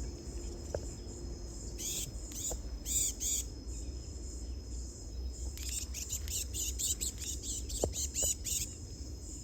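Insects chirping in groups of rapid high pulses, about two seconds in and again from the middle to near the end, over a steady high insect trill and a low rumble.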